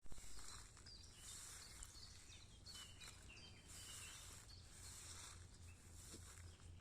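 Faint forest ambience: small birds give a few short, scattered chirps over a steady hiss and low rumble, with a brief knock at the very start.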